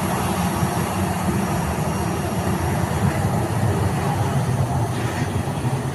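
Jet aircraft engines running at take-off power, a steady deep rumble that eases slightly near the end.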